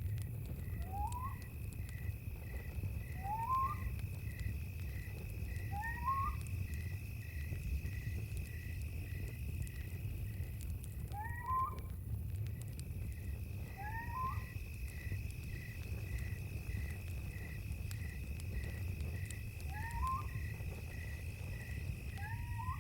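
Night ambience of a campfire's low rumble and crackle under insects. One insect gives a steady high drone and another an even chirp about twice a second. A short rising animal call repeats every few seconds, about seven times.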